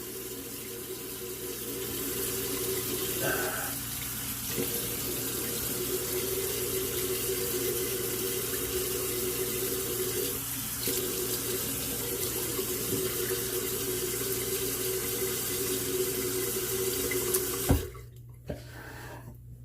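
Tap water running steadily into a bathroom sink, shut off with a click near the end.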